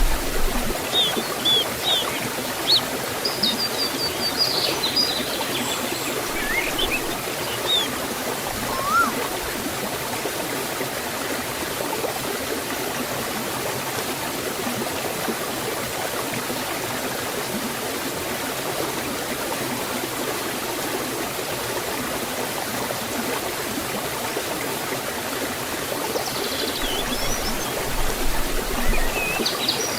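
Forest stream and small waterfall running steadily. Birds chirp briefly over it during the first several seconds and again near the end.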